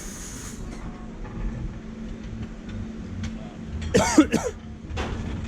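Small-block Chevy V8 idling steadily on newly installed Holley Sniper fuel injection. About four seconds in, a person gives a short cough or throat-clearing sound.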